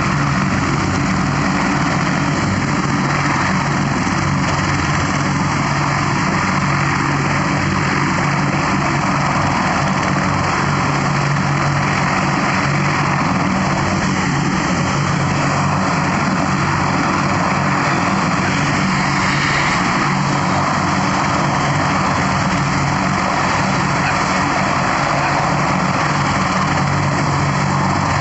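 Aircraft engine running steadily at a constant pitch, a loud unbroken drone with no rise or fall.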